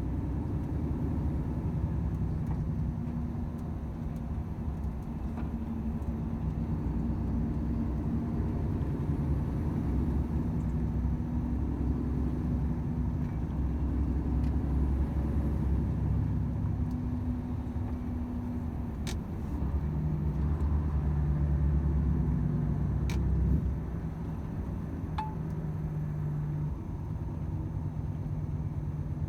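Volvo FH 500 truck's 13-litre inline-six diesel running under way, a steady low drone with road rumble; the engine note shifts lower about twenty seconds in and eases off shortly after, with a few faint clicks.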